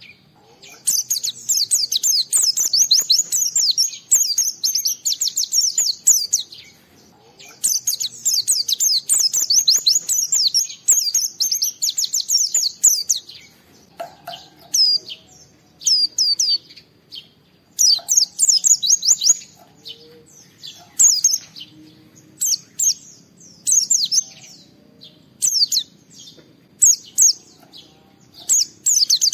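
White-eye (pleci) singing: two long runs of rapid, high, falling twittering notes in the first half, then shorter bursts of a few sharp notes about every second.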